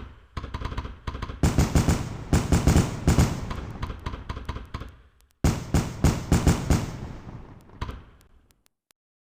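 Fireworks crackling: dense runs of sharp cracks and pops in two main volleys, the second starting about halfway through. Each volley fades out as the cracks thin, and the sound stops shortly before the end.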